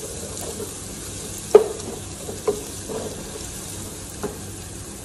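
Sliced onions and ginger-garlic paste sizzling in hot oil while being stirred with a wooden spoon in a non-stick pan, with a few knocks of the spoon against the pan, the loudest about one and a half seconds in.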